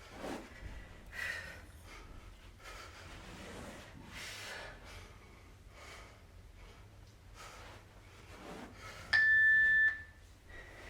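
Heavy breathing, one breath every second or so, recovering between workout intervals. About nine seconds in comes a single electronic beep, held steady for just under a second, the loudest sound here: an interval timer marking the change between work and rest.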